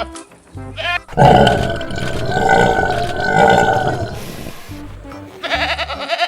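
A long, low animal call lasting about three and a half seconds, starting about a second in, its pitch rising and falling twice, over backing music with stepped bass notes.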